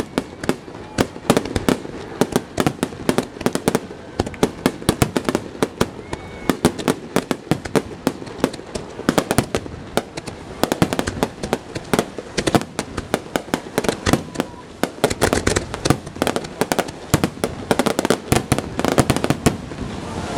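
Fireworks display: a dense, continuous barrage of sharp bangs and crackles, several a second.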